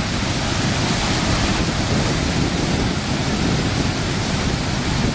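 Great Falls of the Passaic River in flood after hurricane rains, a steady loud rush of falling water, with wind buffeting the microphone underneath.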